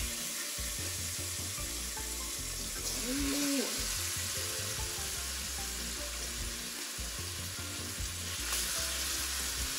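Raw chicken pieces sizzling in hot oil with burned curry powder in a pot: a steady frying hiss that swells about three seconds in and again near the end as more pieces go in.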